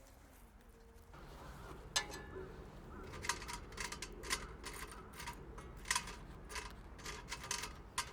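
A run of sharp, irregular clicks and knocks, about two or three a second, starting about two seconds in over a low steady background.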